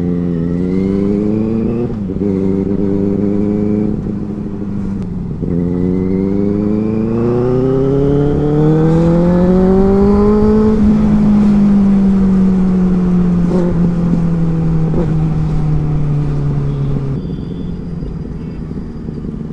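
Benelli 600i inline-four motorcycle engine accelerating through the gears. Its pitch climbs and drops back at each upshift, about two, four and five seconds in. It then climbs in one long pull to about ten seconds, sinks slowly as the throttle is held off, and falls away near the end.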